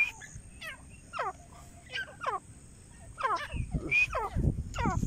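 Grey francolin calling: a run of sharp, steeply falling notes, louder from about three seconds in. Low rumbles sound underneath in the second half.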